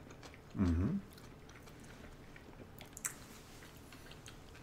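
A short closed-mouth 'mm-hmm', then faint chewing of sushi with small wet mouth clicks, and one sharper click about three seconds in.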